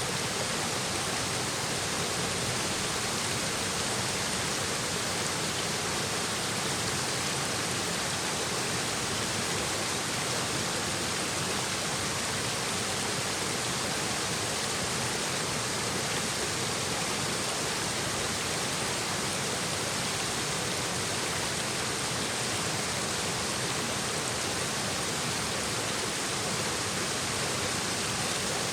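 Mountain stream babbling over rocks: a steady, even rush of water with no breaks.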